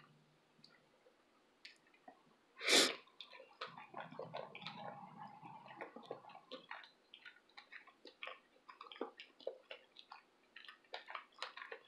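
Close-miked chewing of a bite of sandwich: soft, wet mouth clicks and smacks. About three seconds in there is one short, louder burst of breath noise.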